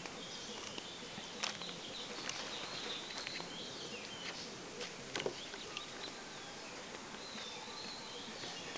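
Birds chirping in a warbling, high-pitched pattern over a steady outdoor hiss, with a few sharp clicks, two of them louder, about a second and a half in and past the middle.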